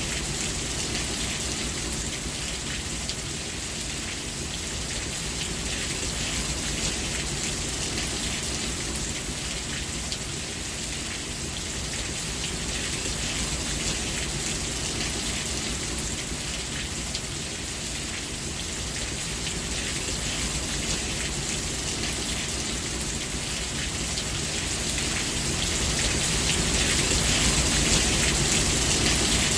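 Steady rain falling, a dense patter of drops on surfaces, growing a little louder near the end.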